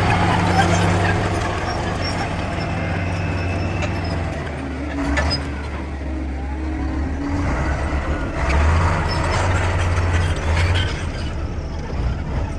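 Bulldozer's diesel engine running with a low hum that rises and falls as it works, with a few short knocks.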